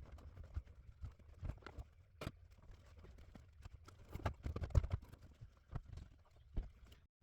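Irregular clicks and knocks of car parts being handled and fitted, over a low rumble, cutting off suddenly near the end.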